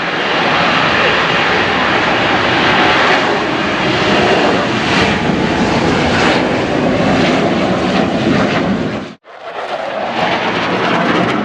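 Loud, steady jet engine noise from military jets making a pass. About nine seconds in it cuts out abruptly for a moment, then resumes.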